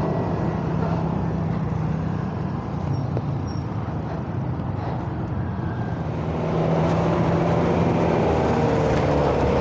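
Tanker truck engine running amid road traffic noise. It gets louder about six and a half seconds in, with a whine that bends in pitch.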